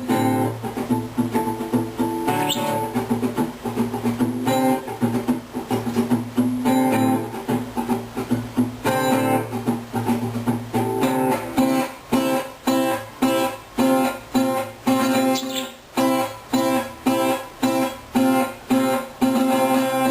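Acoustic guitar being played, picked notes at first and then steady strummed chords about twice a second in the second half. A few brief high rising chirps come through, most likely the pet birds reacting to the guitar.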